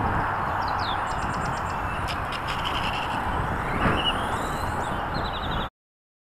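Steady rushing noise with birds chirping over it, cutting off abruptly near the end.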